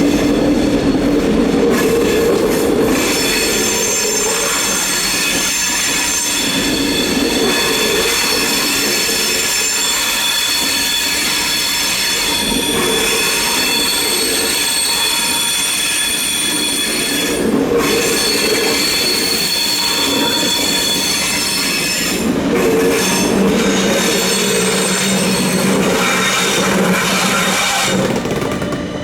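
Train wheel flanges squealing hard on a tight curve of track: a loud, shrill squeal of several high tones at once, held for many seconds over the rumble of the rolling train and easing off near the end.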